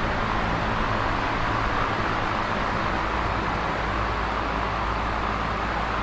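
Electric fan running steadily: an even whooshing of moving air with a low motor hum underneath.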